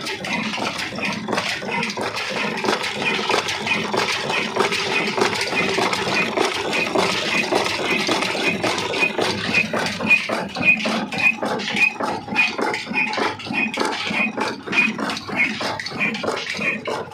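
Old slow-speed Ruston Hornsby diesel engine running steadily, its exhaust beating at an even rhythm of a few knocks a second over a rough mechanical clatter.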